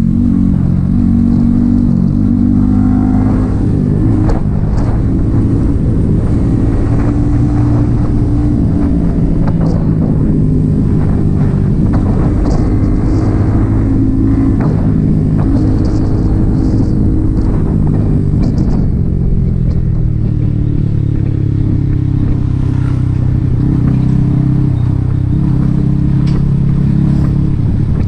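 Yamaha XSR 155's single-cylinder engine through an aftermarket M4 exhaust, running under way with its pitch rising and falling as the throttle is opened and closed.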